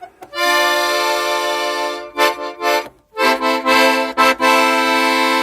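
Parrot 80-bass accordion playing full chords: one long held chord, three short detached chords, then another long held chord.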